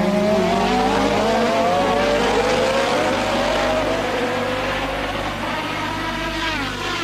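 1988 Formula One racing car engine accelerating, its pitch climbing over about the first four seconds, then falling quickly near the end.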